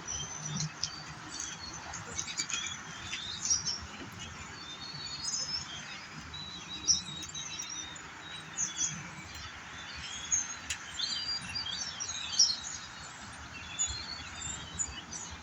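Large flock of blackbirds calling all at once: a dense chatter of many short, overlapping high chirps without a pause.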